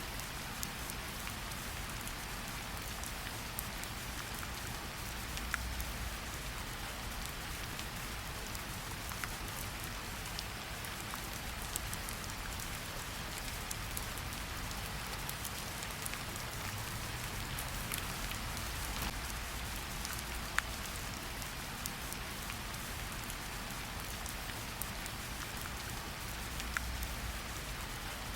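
Steady rain falling in a forest, a continuous hiss with scattered individual drops ticking sharply on nearby surfaces.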